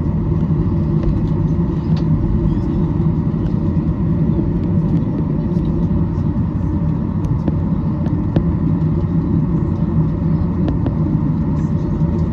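Steady, loud low rumble inside the cabin of a Boeing 737-800, the noise of its CFM56 jet engines and airflow heard through the fuselage.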